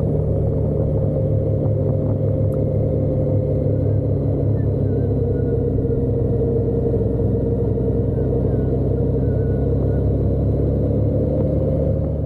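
Motorcycle engine running at a steady cruising speed, with road and wind noise, its pitch holding almost level.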